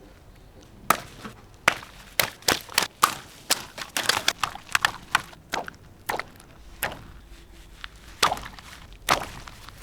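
A quick irregular run of sharp knocks and taps, starting about a second in and thinning out in the second half.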